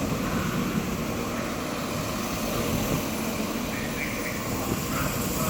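Class 197 diesel multiple unit running at the platform: a steady, even train rumble with no clear rise or fall.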